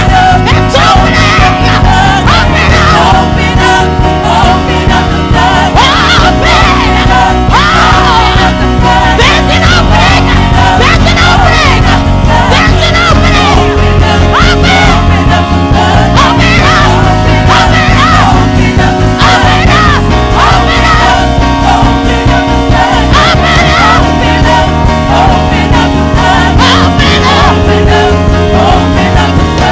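Praise and worship music with singing over a full band with steady bass, playing without a break.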